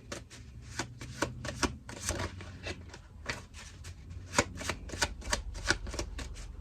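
A tarot deck being shuffled by hand to draw a clarifying card: a quick, irregular run of card clicks and slaps, several a second.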